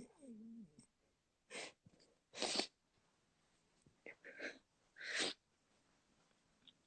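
A person's short, sharp sniffs or breaths through the nose, about four over several seconds. They follow a brief, drawn-out falling vocal sound at the start.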